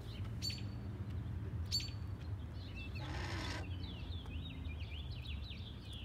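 Small birds chirping and twittering, with two sharp high chirps near the start and a run of quick notes in the second half. About three seconds in there is one short, harsh, raspy call.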